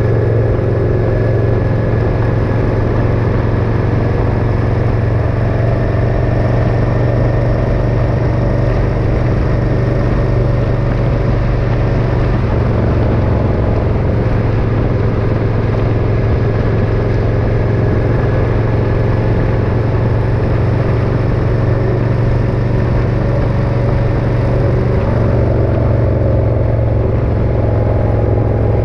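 Motorcycle engine running steadily at cruising speed, its pitch drifting only slightly, under a steady rushing noise.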